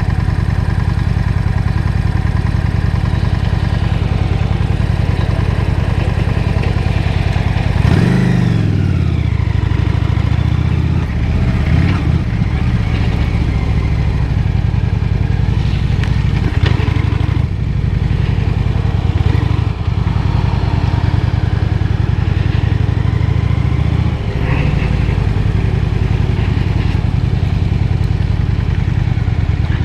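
Honda Shadow 750 V-twin motorcycle engine heard from the rider's seat, running at a steady note for the first several seconds. About eight seconds in, the engine note sweeps, and the revs then rise and fall as the bike rides on.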